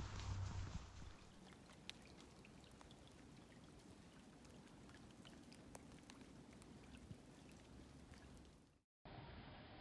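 Faint scattered drops of water ticking over a quiet hiss, like light rain or dripping. The sound drops out for a moment near the end.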